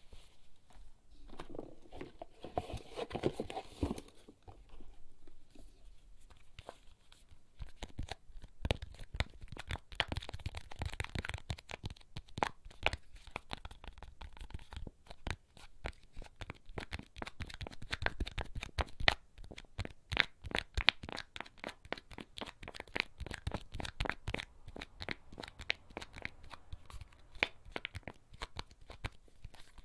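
Rapid fingertip tapping and scratching on small handheld objects, with many quick taps a second. There is a softer crinkly rustle about two to four seconds in.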